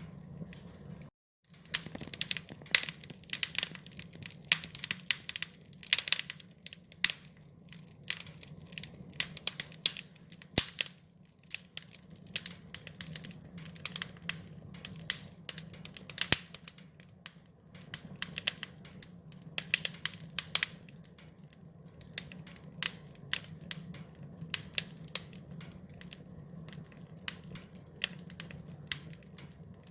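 Wood fire crackling, with frequent sharp irregular pops over a steady low rumble of the flames. The sound drops out briefly about a second in.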